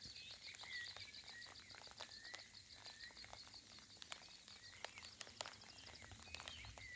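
Faint birdsong: a fast, high trill through the first half and short chirps now and then, over a light patter of raindrops.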